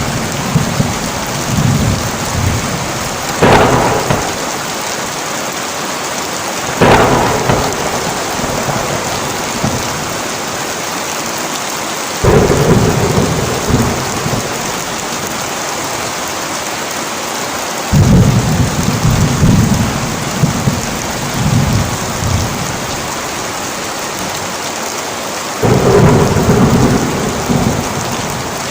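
Heavy rain falling steadily through a thunderstorm. A sharp thunder crack comes a few seconds in and another soon after, then long low rolls of thunder come three more times.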